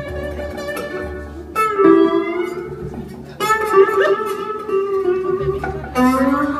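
Live blues band playing an instrumental break between sung verses, with lead guitar phrases of bending, sliding notes over a steady bass and rhythm.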